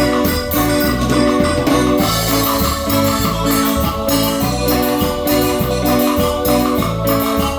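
Cumbia band playing an instrumental passage, an electronic keyboard carrying held chords over a steady percussion beat.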